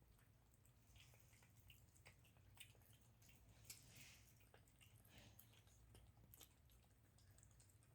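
Faint, irregular small clicks and crunches of a dog and a cat chewing their food, over a low steady hum.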